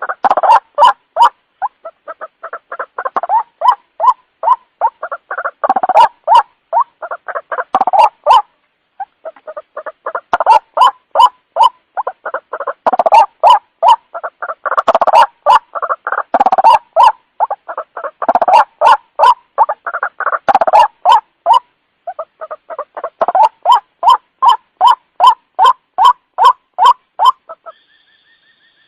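White-breasted waterhen (ruak-ruak) calling: harsh, rapidly repeated notes, several a second, in long series with short breaks.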